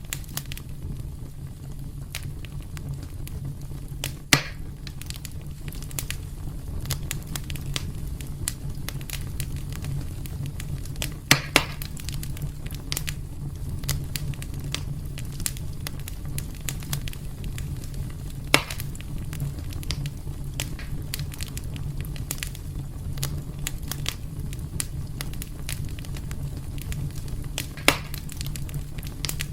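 Wood fire in a fireplace crackling steadily over a low rumble, with a few louder sharp pops spread through, two of them close together about 11 seconds in.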